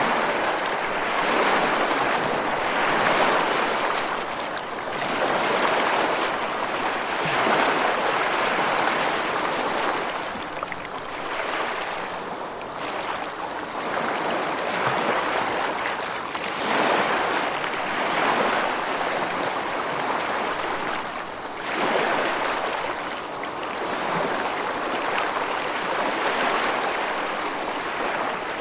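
Rushing water, a dense steady wash that swells and eases every few seconds, with no thunder.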